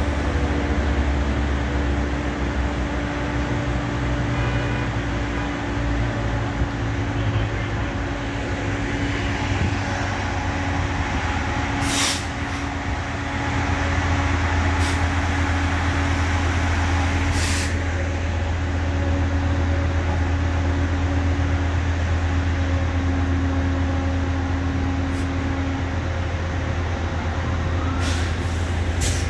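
Metrolink commuter train standing at the platform, its diesel locomotive running with a loud, steady low drone. Several short hisses of released air break in over it, typical of the train's air brakes.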